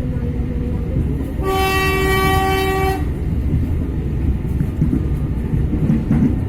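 Diesel locomotive's horn sounding one long blast of about a second and a half, over the steady low rumble of a passenger train arriving at a station.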